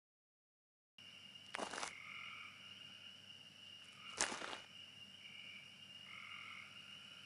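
Night ambience of frogs and insects: a steady high chirring with short croaking calls repeating over it, starting after a second of dead silence. Two sharp knocks, about a second and a half and four seconds in.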